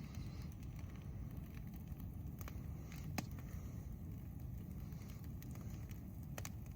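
Brush-pile bonfire burning, with a few sharp, scattered crackles and pops over a low, steady rumble.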